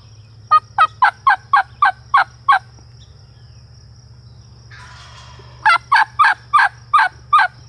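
Two loud runs of hen-turkey yelps, about eight evenly spaced notes each, a few seconds apart. Between them a fainter, rattling gobble from a tom answers.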